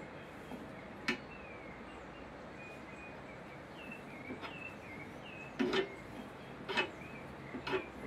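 A small bird chirping repeatedly in short, falling chirps, with a few sharp knocks: one about a second in and three more in the last three seconds.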